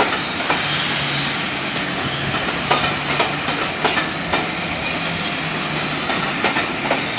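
Passenger coaches of a steam-hauled train rolling past, their wheels clicking over the rail joints at irregular intervals over a steady rumble.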